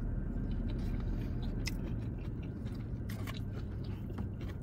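A person chewing a forkful of salad greens close to the microphone, with moist mouth clicks and a few sharp smacks, most of them in the middle. A steady low rumble of the car's cabin runs underneath.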